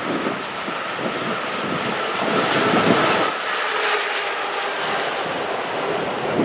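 Passenger train passing, the rumble and clatter of its bilevel cars' wheels on the track, loudest about three seconds in.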